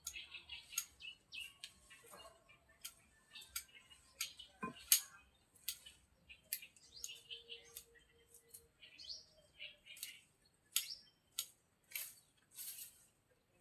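Small birds chirping in short repeated calls, mixed with frequent sharp clicks and taps.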